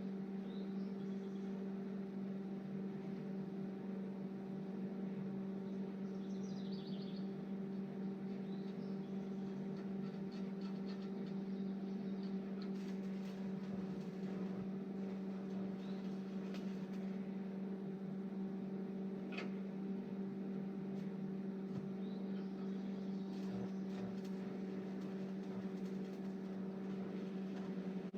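A welding machine humming steadily, with a few faint clicks.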